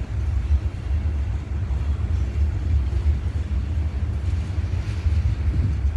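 Slow freight train rolling past, a steady low rumble.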